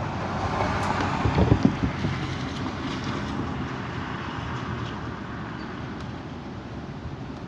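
Strong wind gusting, buffeting the microphone with a few low thumps about a second in, then slowly easing off.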